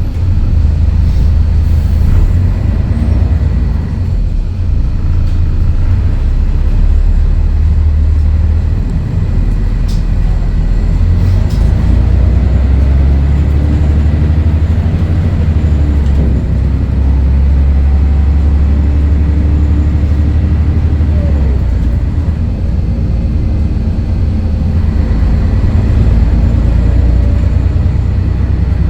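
Scania L113CRL bus's Scania DSC11 diesel engine running loud and deep as the bus drives, its drone dipping and rising a few times.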